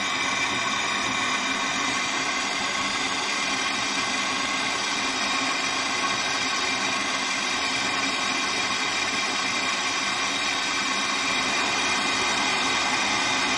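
Gas blowtorch burning steadily, a constant rushing noise, as it heats a motorcycle oil-pipe fitting for silver soldering.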